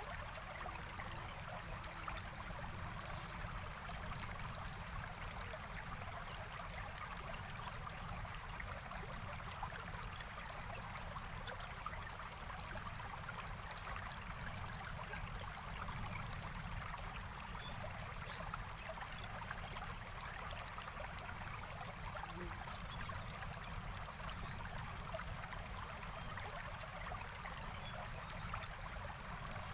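Forest stream flowing steadily, a continuous rushing trickle of water.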